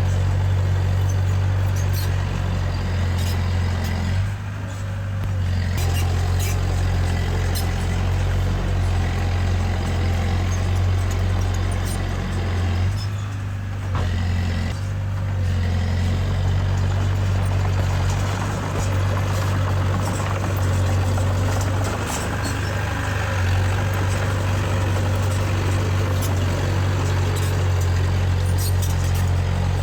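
Heavy diesel engine of earthmoving machinery running steadily with a strong low hum. The hum eases briefly about four seconds in and again around thirteen to fifteen seconds. Scattered light clicks and clanks sound over it.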